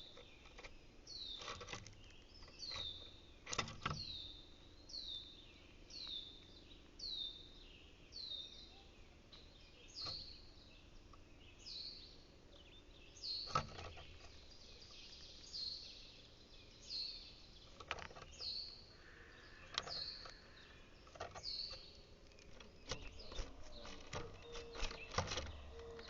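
A songbird calling a short, high, falling note over and over, about once a second, stopping a few seconds before the end. A few sharp knocks and taps sound in between, the loudest about halfway through.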